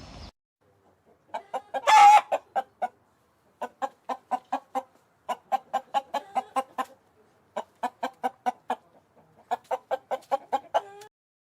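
Chicken clucking in five quick runs of short, rapid clucks, with one louder call about two seconds in.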